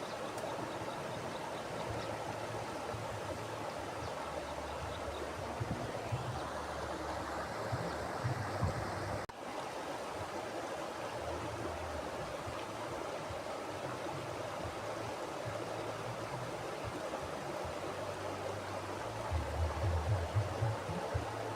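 Mountain river flowing: a steady rushing of water, with irregular low rumbles underneath that grow stronger near the end.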